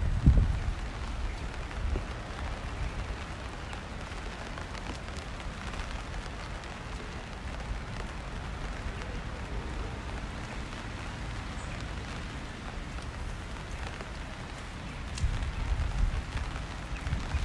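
Steady rain falling on a wet city street, an even hiss. A low rumble swells just at the start and again over the last couple of seconds.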